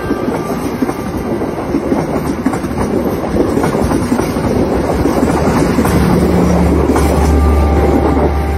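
Passenger train running on the rails, with a dense, steady noise of wheels on track. About six seconds in, a low steady hum joins it and the sound grows a little louder.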